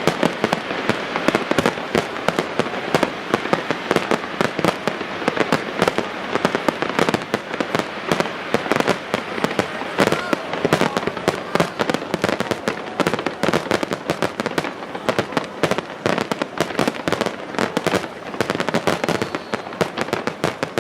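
Aerial fireworks going off in rapid, continuous succession: a dense stream of sharp bangs and crackles, many a second, with no letup.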